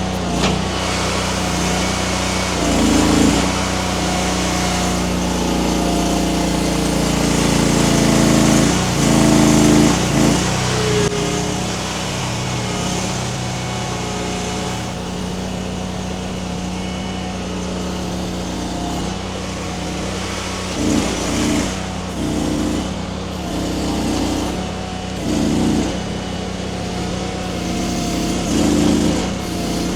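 Mini skid steer's small engine running steadily, with repeated surges every few seconds as the hydraulics are worked under load by the grapple pulling at a tree.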